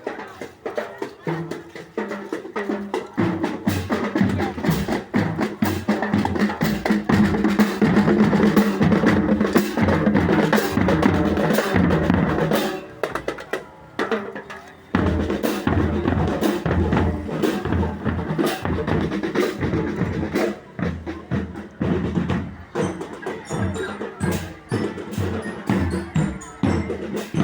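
Marching band drumline playing a rhythmic march on snare and bass drums, with rolls; the playing drops off briefly about halfway through, then starts again.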